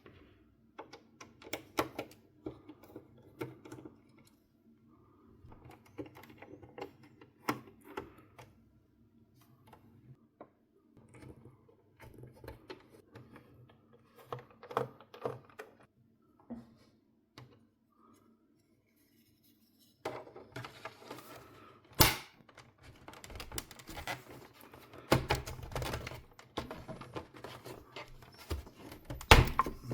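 Hands and tools working on a PlayStation 4 console during a teardown: scattered small clicks, taps and knocks of plastic and metal parts over a faint steady hum. They grow busier and louder past the middle, with one sharp loud click.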